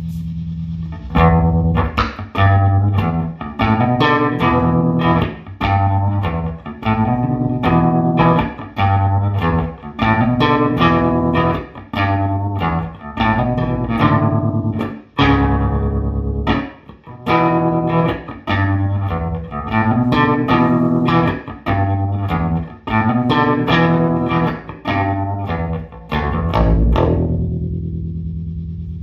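Electric bass guitar played through a 1973 Fender Quad Reverb combo amp loaded with Weber Legacy speakers: a steady riff of plucked notes, some held, with the last note ringing out and fading near the end.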